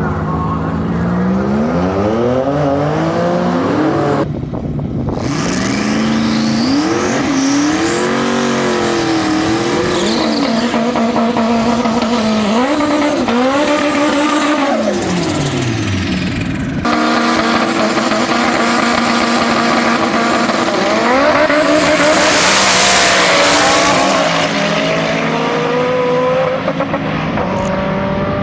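Twin-turbocharged Ford Coyote 5.0 V8 in a drag-racing Mustang, revving with its pitch rising and falling repeatedly, with a loud hissing rush about two-thirds of the way through. The sound is split into separate clips by two abrupt cuts.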